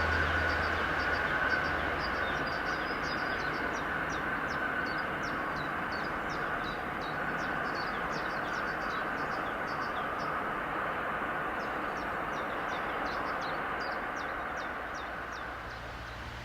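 Train rolling past on the track: a steady rush of wheel and rail noise that eases off near the end. Small birds chirp over it.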